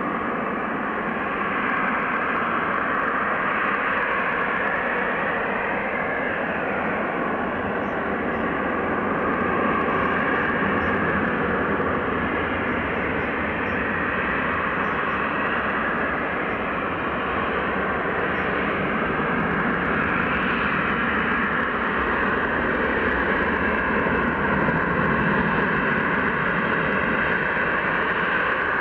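Jet airliner engines running, a steady rushing noise with a faint ringing tone in it, slowly growing a little louder.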